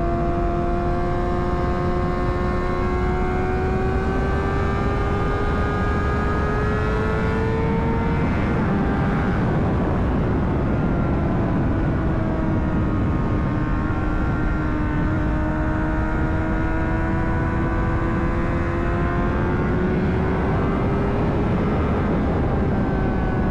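Honda CBR600RR's inline-four engine pulling at road speed, its pitch slowly climbing, dipping after a throttle change or gear shift about eight seconds in, then climbing again, under heavy wind rush on a helmet-mounted microphone.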